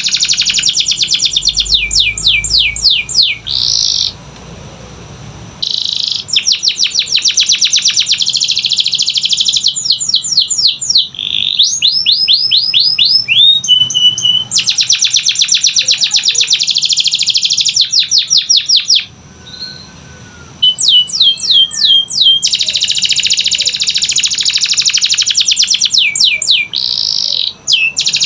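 Canary singing a long, fast song: dense rolling trills alternating with runs of rapid sweeping notes and a briefly held high note, with two short pauses, about four seconds in and again near twenty seconds.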